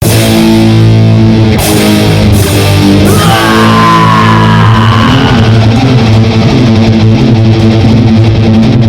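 Loud heavy rock music led by electric guitar, played as sustained chords, with a high sliding line coming in about three seconds in.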